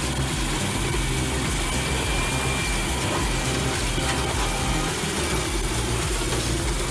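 Large Caterpillar bulldozer's diesel engine running steadily under work.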